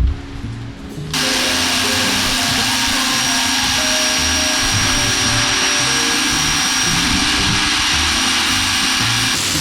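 Ryobi 1,600 PSI electric pressure washer starting up about a second in and then running steadily: a loud hiss of the water spray with a steady motor whine in it. Background music plays throughout.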